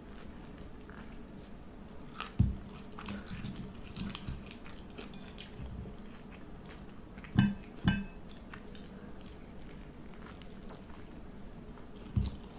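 A person eating close to the microphone: chewing and biting with small wet clicks, and a few louder knocks, twice in quick succession in the middle of the stretch.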